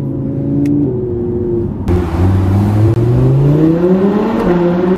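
Audi R8 V10 Plus's 5.2-litre V10, heard from inside the cabin, accelerating. The engine note gets louder about two seconds in, then rises steadily in pitch for about two and a half seconds before levelling off.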